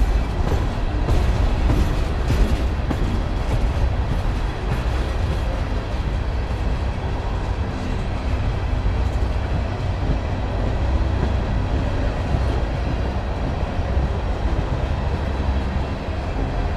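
Empty steel coal hopper cars of a freight train rolling past, wheels on the rails giving a steady rumble with sharp clicks, most of them in the first few seconds.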